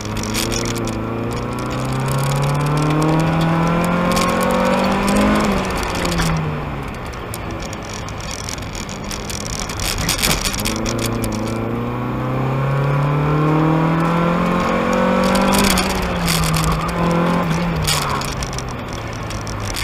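1992 Mazda Miata's stock 1.6-litre four-cylinder, with headers and a cat-back exhaust, heard from inside the car under hard driving. It revs up for about five seconds and drops off, then climbs again and falls away in steps near the end.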